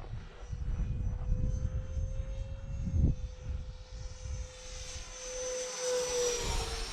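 Electric ducted-fan whine of a 64 mm Arrows F86 Sabre RC jet flying a pass. It grows louder about five seconds in and drops slightly in pitch near the end as it goes by. Gusty wind rumbles on the microphone throughout.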